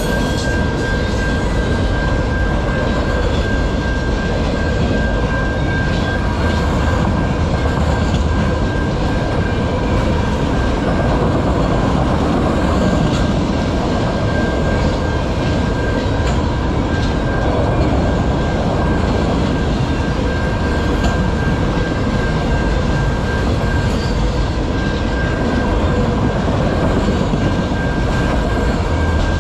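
Freight train of autorack cars rolling steadily past a level crossing: a continuous loud rumble and rattle of steel wheels on rail and swaying car bodies. A steady high ringing tone sits over it.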